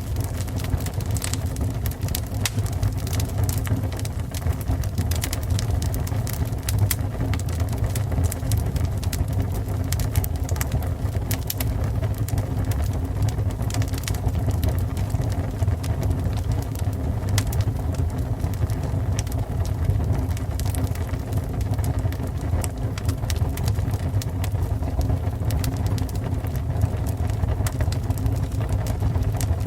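Fire burning: a steady low roar with frequent sharp crackles and pops.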